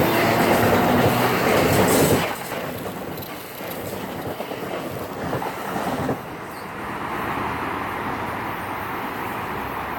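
A train passing, its wheels clattering over the rail joints, loud for about two seconds before dropping off sharply and trailing away.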